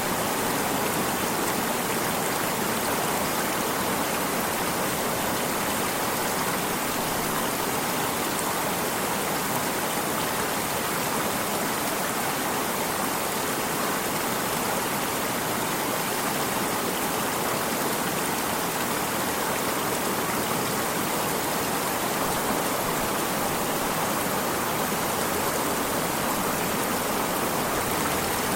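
A stream of water running steadily: an even, unbroken rushing sound with no distinct splashes or breaks.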